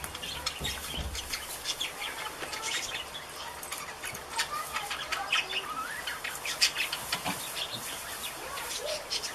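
Birds chirping, a steady run of short, quick calls with a few brief sliding notes.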